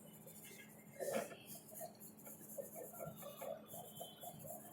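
Faint pencil shading on paper: quick, even back-and-forth strokes, several a second, scratchy and hissy. A slightly louder stroke or brush comes about a second in.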